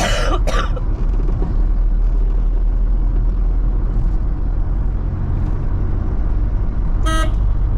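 Steady engine and road rumble of a van driving along a road, with a brief hiss right at the start and a short horn beep near the end.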